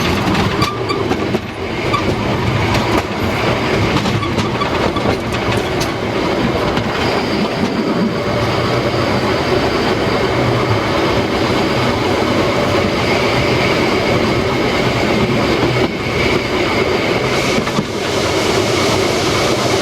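Narrow-gauge steam train running on the rails, its wheels clattering over the rail joints, with a faint high squealing tone in the second half.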